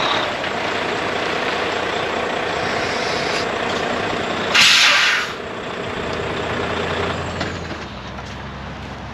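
Heavy truck running, with one loud hiss of released air from its air brake system about halfway through. Afterwards the running sound drops to a quieter, steady low hum.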